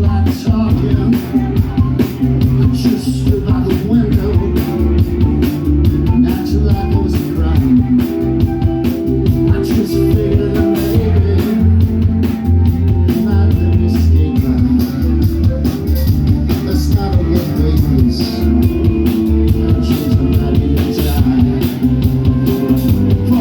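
Rock band playing live, with drum kit and guitar, in a stretch where no sung words are made out.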